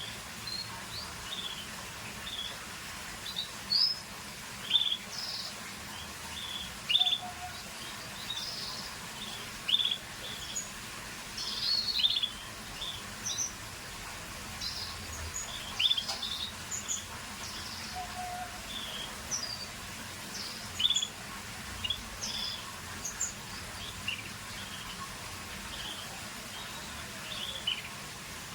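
Scotch Fancy canary chirping: short, high, separate notes about every second or so, with no continuous song, over a steady faint hiss.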